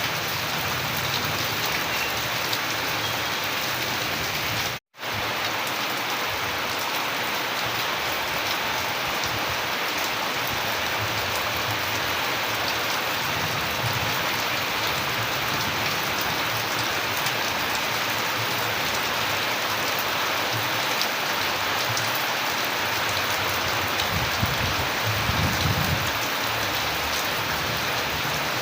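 Steady heavy rain falling and pattering on surfaces, an even hiss with scattered drop impacts. The sound cuts out completely for a split second about five seconds in, and a low rumble swells briefly near the end.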